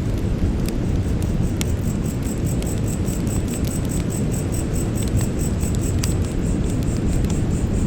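Campfire burning with a steady low rumble and scattered sharp crackles and pops. Insects chirp throughout in a rapid, even, high-pitched pulse.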